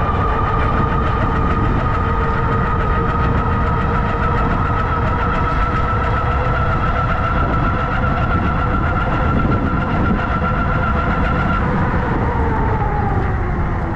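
A vehicle's motor whining steadily with the low rumble of riding underneath. The pitch rises slowly, then falls away about twelve seconds in as the vehicle slows.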